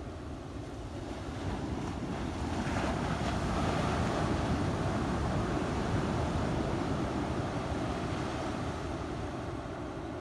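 Surf breaking on a beach: a wash of waves that swells about two seconds in and eases off toward the end, with wind buffeting the microphone.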